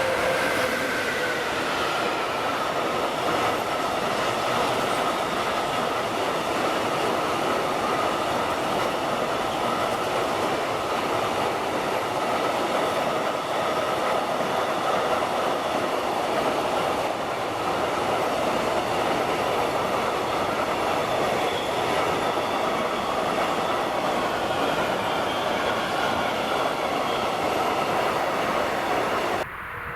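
Container freight train rolling past at speed, a steady rumble of wagon wheels on the rails with faint tones, one dropping slightly in pitch early on. It cuts off abruptly near the end.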